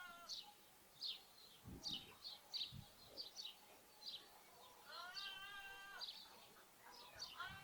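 House sparrows chirping over and over in short high notes, with a lamb bleating once, a drawn-out call about five seconds in, and starting another bleat right at the end.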